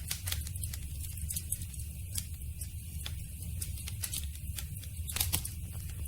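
Campfire burning with a steady low rumble and frequent sharp crackles and pops of burning wood, a quick cluster of louder pops a little past five seconds in.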